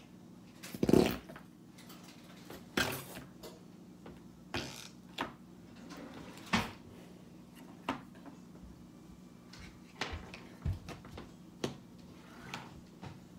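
Irregular knocks and clicks of things being handled and set down, about a dozen spread out, the loudest a thump about a second in.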